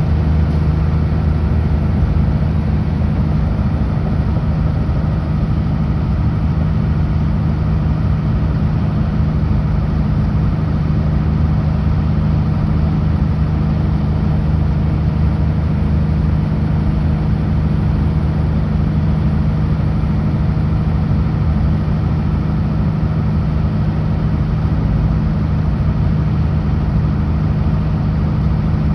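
Kenworth W900L semi truck's diesel engine running steadily under way on the highway, a constant low drone mixed with road noise.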